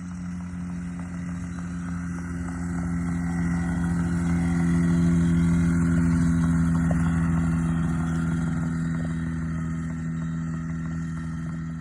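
A machine running with a steady hum that grows louder toward the middle and then eases off, with a few faint clicks.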